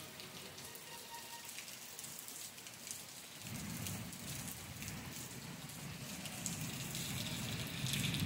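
Rain falling steadily, a dense pattering of drops. About three and a half seconds in, a low rumble joins it and grows a little toward the end.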